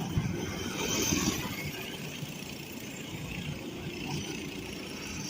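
Small racing engines of lawn mowers running on the track, their sound swelling about a second in and again near the end.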